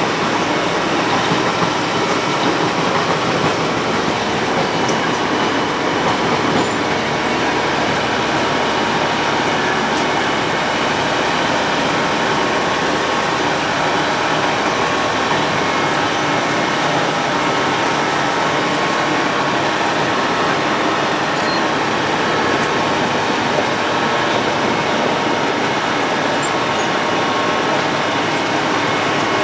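Road planer (cold milling machine) running, its cutting drum grinding up the asphalt surface in a loud, steady grinding noise with a faint engine hum underneath.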